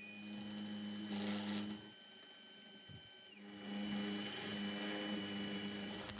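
Small machine tool's electric motor running with a steady hum, stopping about two seconds in and starting again a second and a half later.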